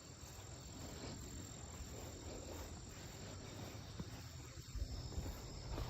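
Crickets chirring steadily over a low rumble, with a couple of low thumps in the second half.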